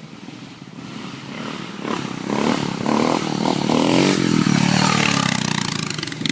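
Dirt bike engines revving as the bikes come closer. The sound grows louder about two seconds in, and the pitch rises and falls with the throttle.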